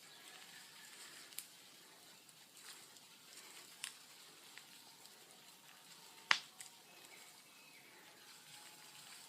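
Large wood bonfire crackling: a low hiss with scattered sharp pops, the loudest about six seconds in.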